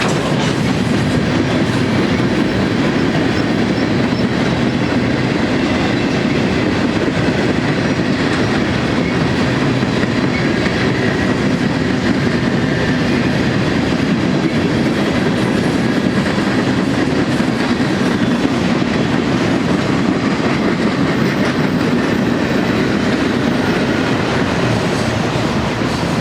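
Freight cars of a manifest train rolling past on the rails: a steady rumble of steel wheels on track that holds at the same level throughout.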